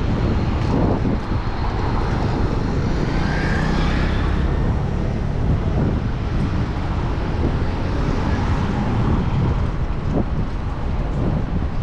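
Wind rumbling on the microphone of a moving bicycle, with city traffic going by; the traffic swells about four seconds in.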